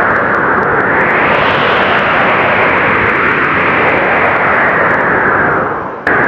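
Blizzard wind blowing hard and without a break, rising and falling in gusts. Near the end it fades out briefly, then cuts back in abruptly at full strength.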